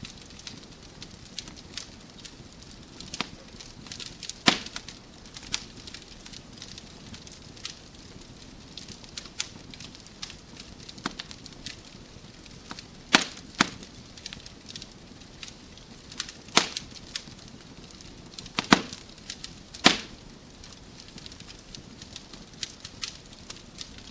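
Wood fire crackling in a fireplace: a soft steady hiss with irregular sharp pops and snaps from the burning logs, a few louder pops standing out.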